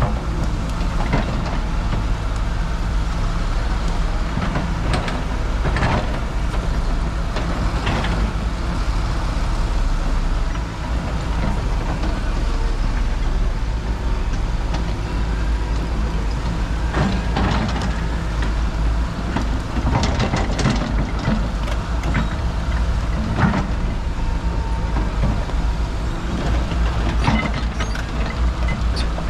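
Road traffic noise with heavy trucks: a steady low rumble of engines and tyres, with scattered short knocks and clatters.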